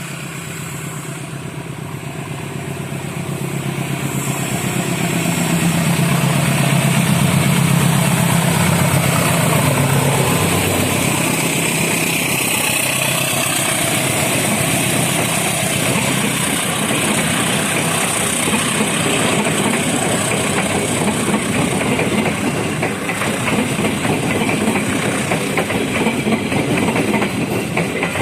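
Diesel locomotive of an express passenger train approaching and passing, its engine hum growing louder over the first several seconds. From about halfway through, a fast, dense clatter of the carriages' wheels over the rail joints takes over.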